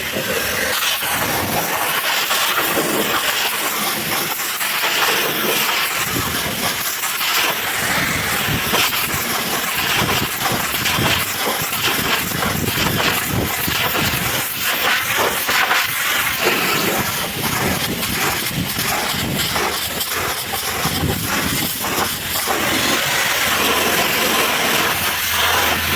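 Pressure washer jet spraying water, a loud steady hiss.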